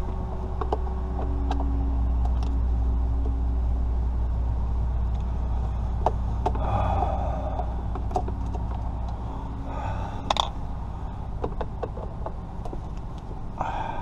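Scattered light clicks and a few brief rustling scrapes, typical of hands and tools working on the plastic steering-column trim, over a steady low rumble.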